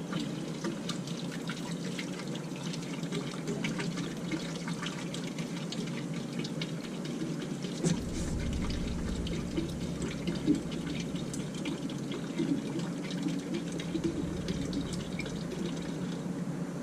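Bass boat livewell pumps running, with water pouring and splashing into the livewell over a steady pump hum. A low rumble joins about halfway through.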